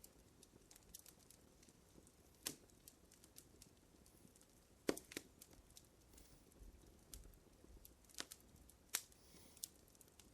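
Wood fire crackling softly: a steady scatter of small ticks and pops, broken by about five louder snaps, the sharpest near the middle.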